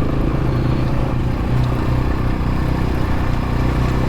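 X-Pro Templar X dirt bike engine running at a steady low speed while riding, its pitch holding nearly constant.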